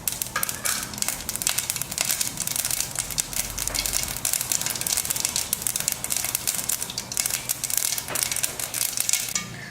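Mustard seeds popping and spluttering in hot coconut oil: a dense, rapid crackle of many small pops.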